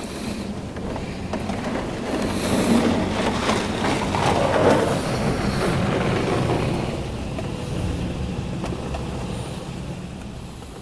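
Mark VII ChoiceWash XT automatic car wash working over the car, heard from inside the cabin. A broad rushing spray noise swells to a peak around the middle and then fades, over a steady low hum.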